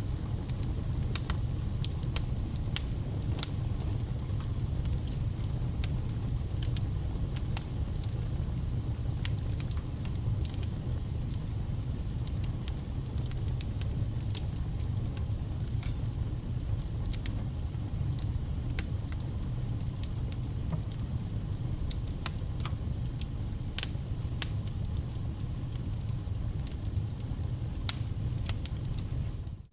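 Wood fire burning: a steady low rumble of flames with scattered sharp crackles and pops from the burning logs. The sound dips briefly at the very end.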